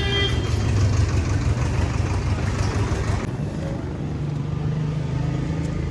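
HMT tractor's diesel engine running steadily under load, its sound shifting about three seconds in.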